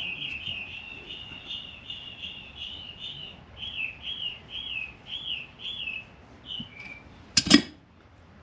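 A songbird singing: a fast trill of repeated whistled notes, then a run of slower slurred notes about two a second. Near the end, two sharp knocks close together, the loudest sound, from tool work on the engine's cylinder head.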